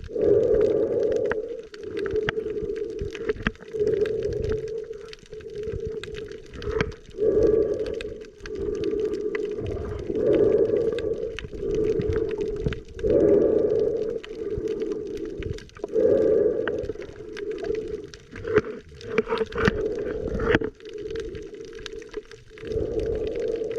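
Muffled underwater sound picked up by a camera during snorkeling: a dull hum and gurgling that swells and fades every two to three seconds, with scattered small clicks.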